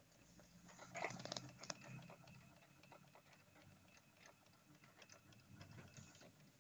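Faint, quick, uneven ticking from under the dashboard of a 2005 Toyota Sienna, heard with the key on; a cluster of louder clicks comes about a second in. The owner suspects a relay.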